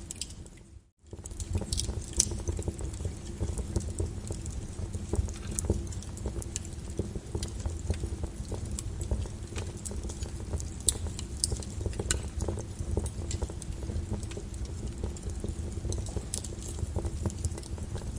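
Lava crackling and popping with many sharp clicks over a steady low rumble, after a brief drop to near silence about a second in.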